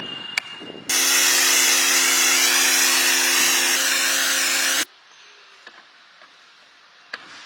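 Bosch GHP 200 high-pressure washer spraying: a loud hiss of the water jet over a steady motor hum, starting just after a click and running about four seconds before cutting off suddenly.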